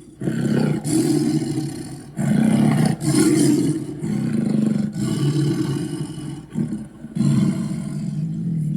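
Deep monster roars and growls for the demon Chernabog, about eight in quick succession, each lasting around a second with short breaks between them.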